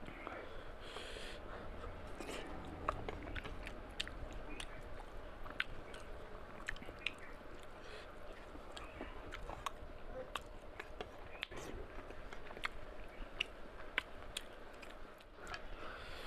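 Close-miked chewing and lip-smacking of curried mutton eaten by hand, with many sharp wet mouth clicks. Fingers pull meat from a cooked mutton head.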